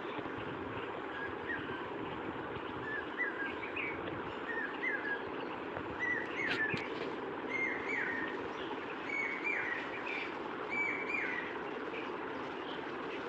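A bird calling over and over in short, downward-slurred phrases, about one every second and a half, over a steady background hiss.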